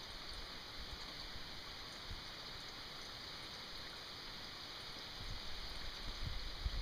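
Steady rain falling, an even hiss. Low rumbling bumps build up near the end.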